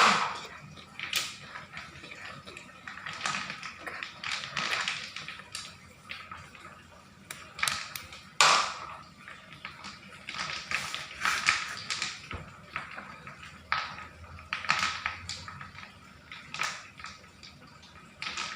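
Small stones and a plastic toy dump truck clattering as the truck is loaded and handled, with irregular taps and knocks, the loudest knock about eight seconds in.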